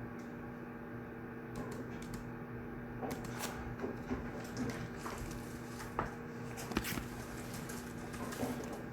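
Steady electrical hum of a quiet study room, with a run of light rustles and small clicks from someone handling things at a desk, starting about a second and a half in and fading near the end.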